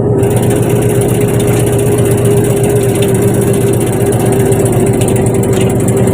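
Fishing boat's engine running steadily: a loud, even drone with a constant low hum and hiss.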